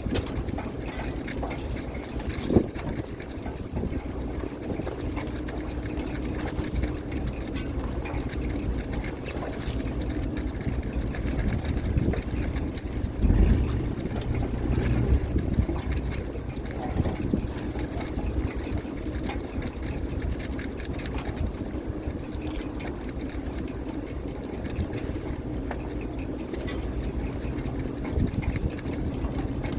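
Fishing boat's engine running steadily, with water noise around the hull. A sharp knock sounds a couple of seconds in, and a heavy thump comes about midway.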